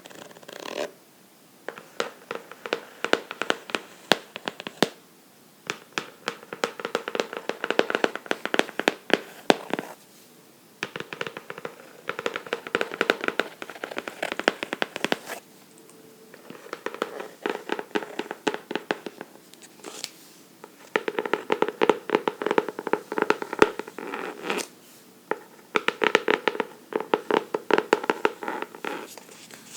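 Fingernails scratching and tapping on a book, in runs of rapid clicks a few seconds long with short pauses between.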